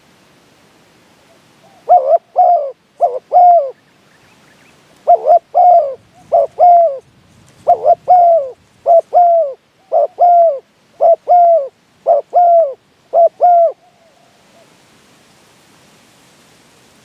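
Spotted dove cooing loudly and close, a run of phrases of three or four throaty, slightly falling coos each, from about two seconds in until about fourteen seconds in. This is the dove's territorial song, the call that a decoy bird uses to draw in wild doves.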